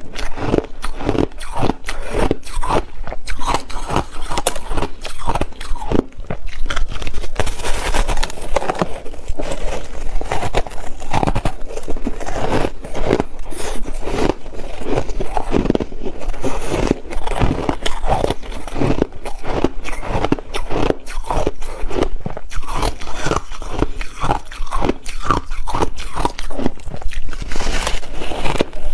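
Ice being bitten and chewed close to the microphone: a dense, irregular run of loud crunches.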